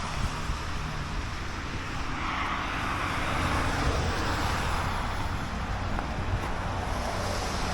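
Road traffic noise: a steady rumble and hiss, with a vehicle passing that swells and fades over a few seconds.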